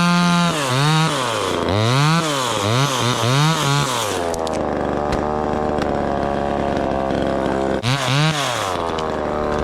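Small gas chainsaw revving up and down in quick repeated bursts, dropping to a steady idle about four seconds in, then revving twice more near the end.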